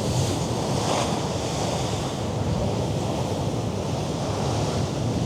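Mediterranean sea waves washing on the shore below, a steady surf noise, with wind rumbling on the microphone.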